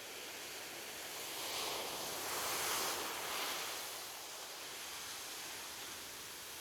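Ocean waves washing onto a beach: a steady surf hiss that swells as one wave breaks about two to three seconds in, then ebbs back.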